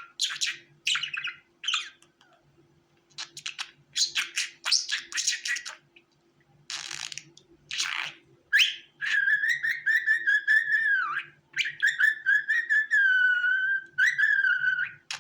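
Budgerigar chirping and chattering in short bursts, then, a little past halfway, singing long warbling phrases that wobble in pitch.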